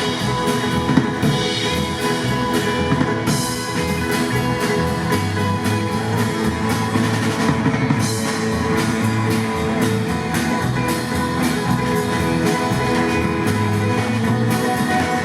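Live band playing an instrumental stretch of rock music, with electric guitar and a drum kit.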